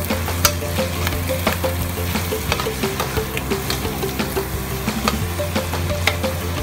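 Ground pork, sausage and red bell pepper sizzling in a wok while a metal spatula stirs them, clacking and scraping against the pan every second or so. Background music plays underneath.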